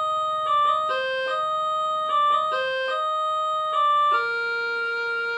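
Electronic keyboard playing a short tune of single notes, ending on one long held note about four seconds in. It is a sound test after repair, and the keyboard's sound is working correctly.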